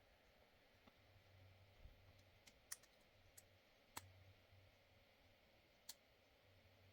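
A few faint, sharp clicks spread irregularly over a low steady hum.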